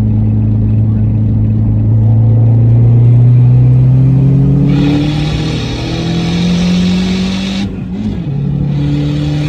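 Dodge SRT-4's turbocharged 2.4-litre four-cylinder pulling hard under acceleration, its note rising steadily through a gear. A loud hiss joins about halfway through. Near the end the pitch drops suddenly at a gear change, and the engine picks up again lower down.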